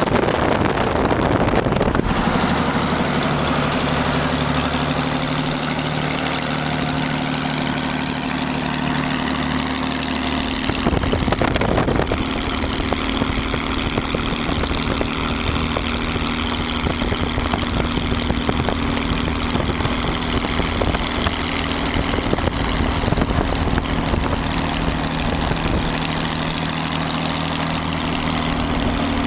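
Hot-rod V-12 engine running steadily at low revs, a deep even engine note that holds one pitch. There is a short rush of noise about eleven seconds in.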